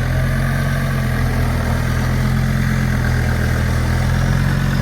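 Off-road race car's engine running steadily at a low idle while the car is driven slowly and gently.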